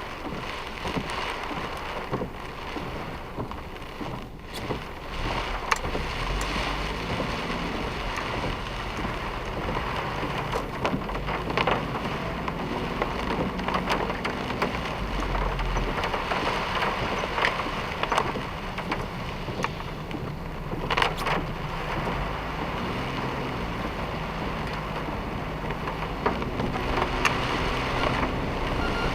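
Heavy typhoon rain beating on a moving car, with scattered sharp taps of drops and the car's engine and road noise underneath.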